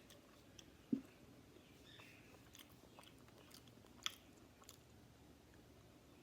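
Faint chewing of Wendy's Takis-seasoned fries, with a few soft clicks and crunches. There is a dull thump about a second in.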